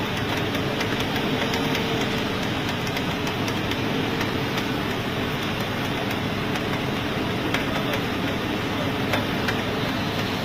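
A 4x4 pickup truck's engine running steadily under load in deep mud, a constant engine drone with a steady hum and no clear revving.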